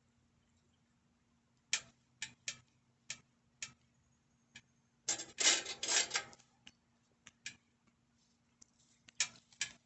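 Small metal bicycle brake parts clicking and clinking as they are handled and fitted. It starts with a run of separate sharp clicks about half a second apart, then a second or so of dense metallic rattling, then a few more scattered clicks.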